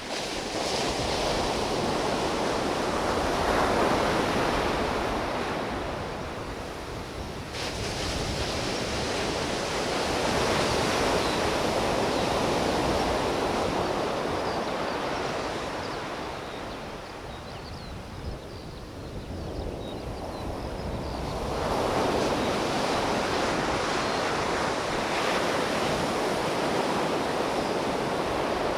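Ocean surf breaking on a beach, a steady wash of noise that swells and fades as each set of waves rolls in, with a lull in the middle.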